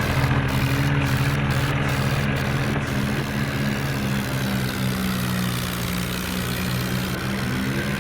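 Tractor's diesel engine running steadily, its pitch easing down slightly through the middle and starting to rise again near the end.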